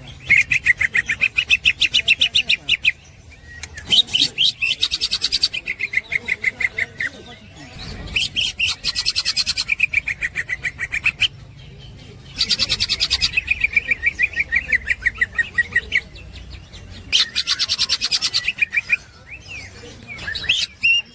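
Green leafbird (cucak ijo) singing its 'ngekek' chatter: bouts of very fast repeated high notes, each lasting two to three seconds, with short pauses between, about five bouts in all.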